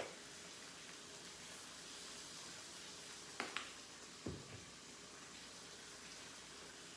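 Tilapia and green beans frying in oil in a pan, a faint steady sizzle. A sharp click comes right at the start and three more about three and a half to four and a half seconds in, from spice jars being handled over the pan.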